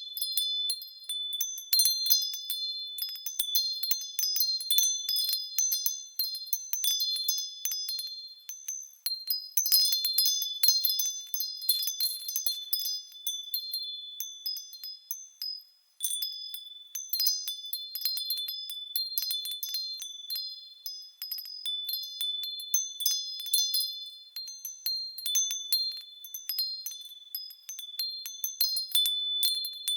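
Japanese wind chimes (fūrin) tinkling in the breeze: many quick, high, overlapping strikes that ring on. About halfway through, the ringing dies away briefly, then starts again suddenly.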